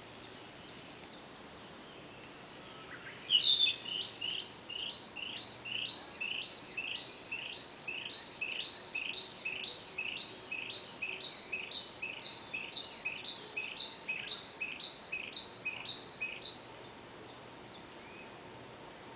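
Narcissus flycatcher singing its long song: a two-note phrase, a high clear note followed by a lower falling note, repeated about twice a second for some thirteen seconds. The song starts a few seconds in and stops near the end.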